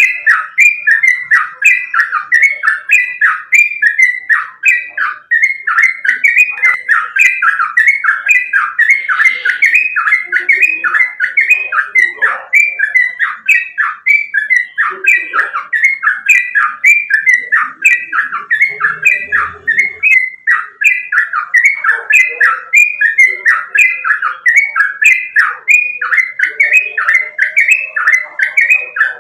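Yellow-vented bulbul (trucukan) singing a fast, unbroken run of short, falling whistled notes, about two to three a second.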